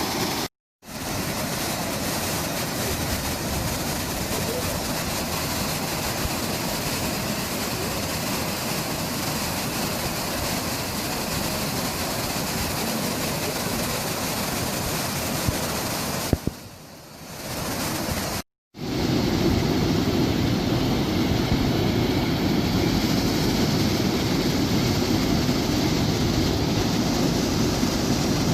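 Steady rushing water of a waterfall, an even noise with no distinct events. It breaks off abruptly twice, about half a second in and about 18 seconds in, and comes back louder and fuller after the second break.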